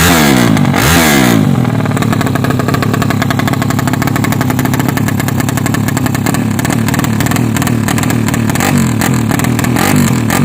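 Yamaha Jupiter MX underbone motorcycle's single-cylinder four-stroke engine, bored out to 200cc, revved twice in quick blips at the start, then idling, with a few lighter revs near the end.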